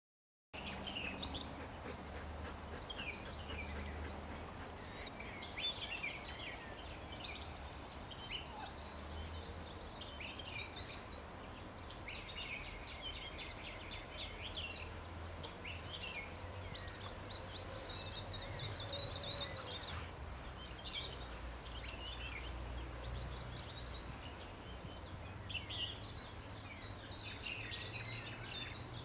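Outdoor ambience: several birds chirping and trilling throughout, over a steady low rumble.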